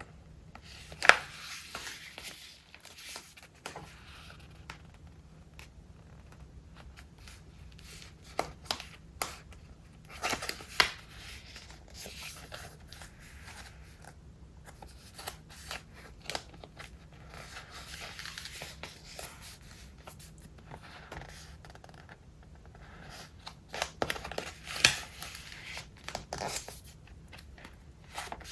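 Pages of a thick, collage-filled traveler's notebook being turned and handled: soft paper rustling and crinkling, with sharp flaps as pages flip over about a second in, around ten seconds in and near twenty-five seconds.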